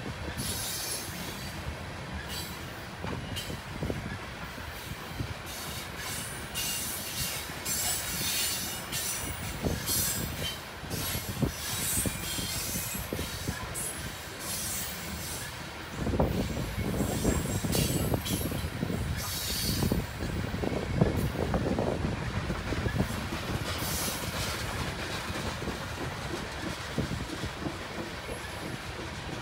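Coal train's loaded hopper cars rolling past: a steady rumble of steel wheels on rail with intermittent high-pitched wheel squeal. Around the middle the rumble grows heavier, with knocking and clatter from the cars.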